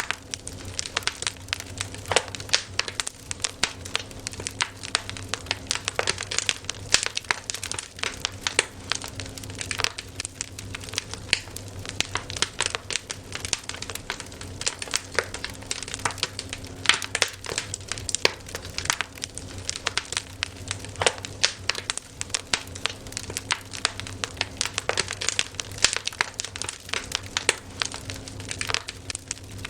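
Wood campfire crackling: dense, irregular snaps and pops, several a second and uneven in loudness, over a faint steady low hum.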